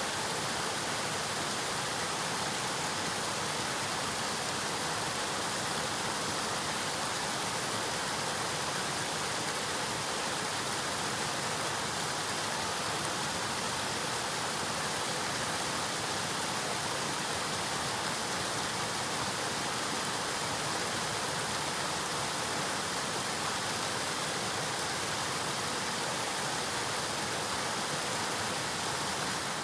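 River water flowing, a steady, unbroken rush of moving water.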